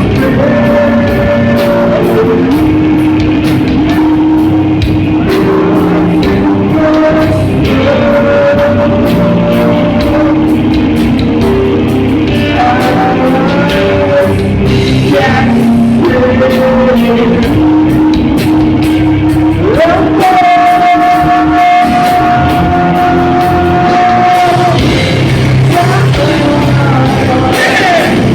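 Live extreme metal band playing loud, distorted rock with long held notes that change pitch every few seconds, and a singer's vocals over it, in a reverberant hall.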